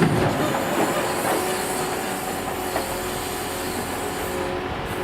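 Scania G490 timber truck's engine and crane hydraulics running steadily with a steady whine, and a few light knocks as logs are handled during loading onto railway wagons.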